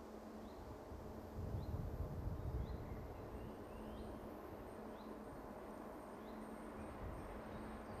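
Quiet countryside ambience by a railway line. A bird repeats a short rising chirp about once a second over a faint steady high tone, and a low rumble swells for a second or two about a second and a half in.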